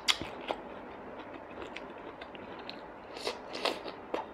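A person chewing a mouthful of braised tuna close to the microphone: soft wet mouth clicks and smacks, with a sharper cluster about three seconds in.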